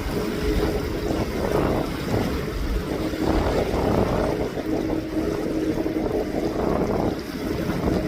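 Jet aircraft engine rumble with wind buffeting the microphone. The rumble rises and falls in gusts, and a faint steady hum comes and goes over it.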